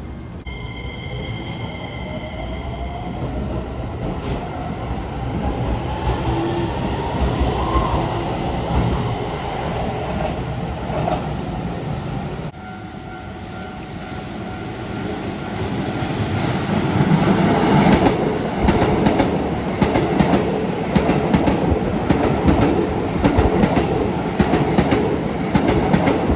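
Keisei 3000-series commuter train heard from inside the carriage. The motor whine rises in pitch over the first several seconds as the train accelerates. About halfway through, the running noise grows louder, with a rapid clatter of wheels over the rail joints.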